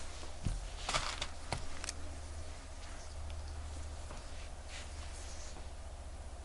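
A few sharp, light clicks and soft scraping from small tools handling a wristwatch at the bench, over a steady low electrical hum.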